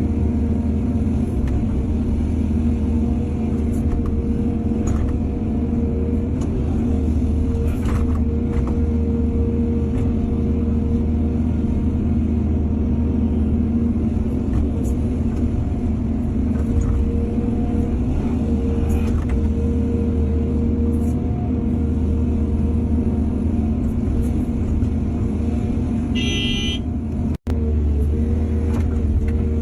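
Excavator's heavy diesel engine running steadily, with a few scattered knocks. Near the end comes a short horn-like toot, then a sudden brief drop-out.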